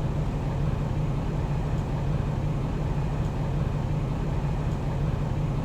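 A steady low hum, even throughout, with nothing else standing out.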